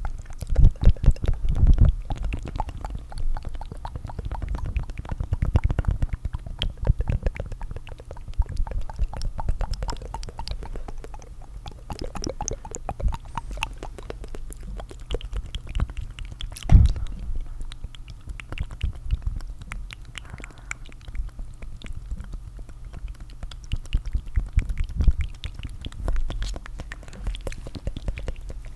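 Layered tongue fluttering: dense, rapid wet mouth clicks and flutters that swell and ease, with louder bursts about a second in and again around the middle.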